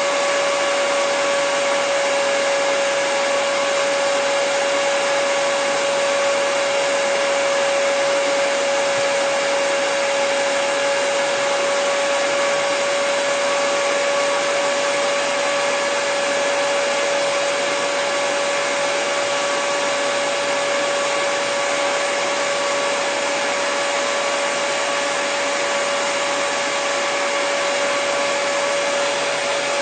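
Hair dryer running steadily at one setting: a constant rush of air with a steady motor whine.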